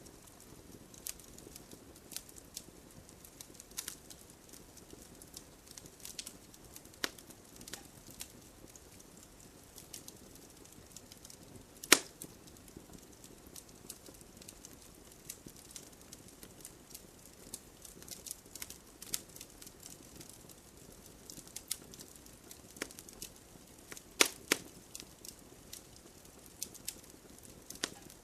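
Wood campfire crackling: scattered sharp pops and snaps over a soft low hiss of burning. The loudest pop comes about halfway through, with a close pair of strong pops near the end.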